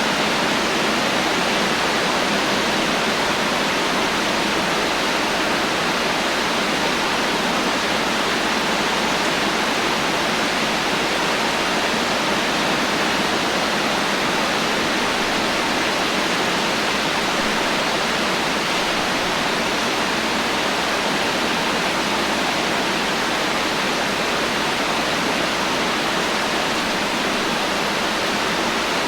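Heavy rain falling steadily with no thunder: an even, unbroken hiss with no single drops or gusts standing out.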